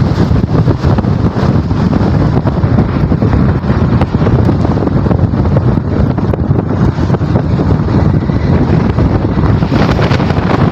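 Strong wind blowing across the microphone: a loud, steady, buffeting rumble without a break.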